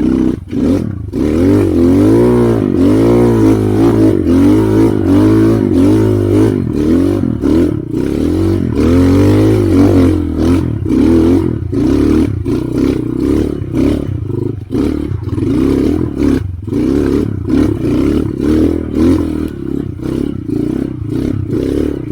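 Trail motorcycle engine revving up and down over and over as it climbs a rough off-road trail, the pitch rising and falling every second or so. Frequent sharp knocks and clatter run through it.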